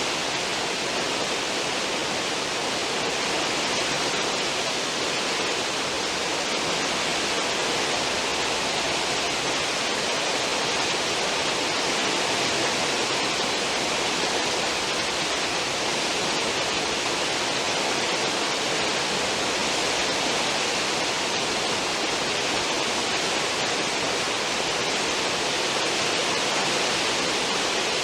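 Cruise ship's stern wake: churning, foaming water rushing behind the ship in a steady, even hiss with no breaks.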